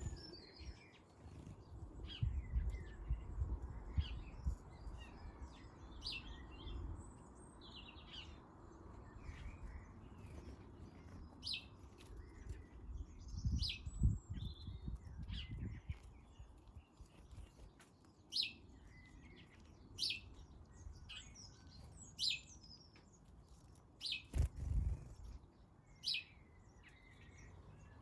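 Garden birds at a feeder chirping: short, sharp chirps repeated every second or so, with some softer twittering. Low rumbles and a few dull thumps sound underneath, with a sharp knock about 24 seconds in.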